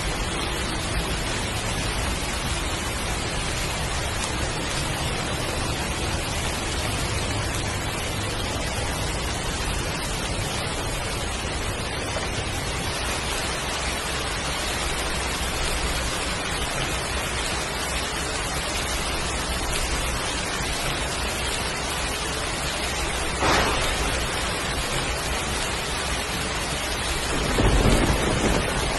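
Heavy rain falling steadily. A short, sharp crack comes about three-quarters of the way through, and a louder low rumble of thunder comes near the end.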